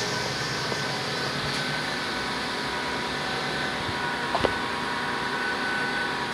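Steady hum of an idling vehicle engine, warming up after a cold start, with a few faint clicks.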